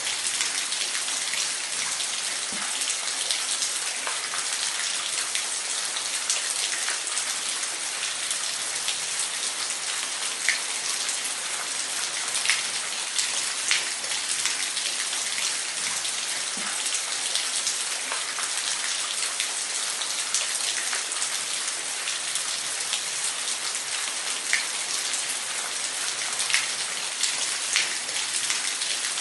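Waterfall: a steady hiss of falling water, with scattered sharp splashes and drips through it.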